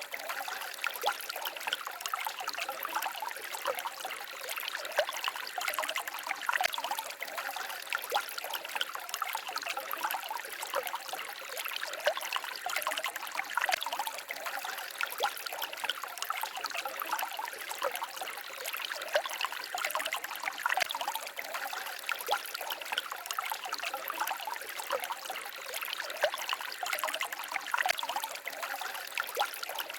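A small forest stream babbling and trickling over stones, a steady splashing and gurgling with constant small flickers of water.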